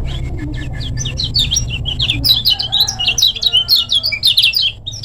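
Kecial kuning singing a fast, tightly packed run of sharp chirps. It starts about a second in and grows louder, over a low rumble in the first half.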